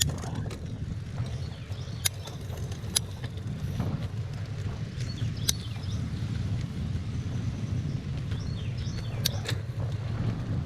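Bicycle ride: wind rumbling steadily on the microphone, with a few sharp clicks and rattles from the bike, about five over the stretch.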